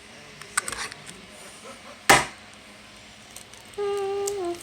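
Light clicks of kitchen handling, with one loud sharp knock about two seconds in. Near the end comes a short voice-like note, held and then falling in pitch.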